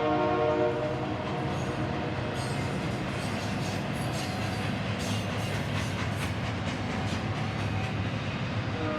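Train passing: its horn sounds a held chord that fades out about half a second in, then the rumble and clatter of the cars rolling by, and the horn starts again right at the end.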